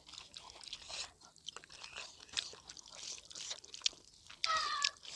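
Close-up chewing and wet mouth clicks of a person eating pork fat and vegetables. A brief high-pitched whine is heard near the end.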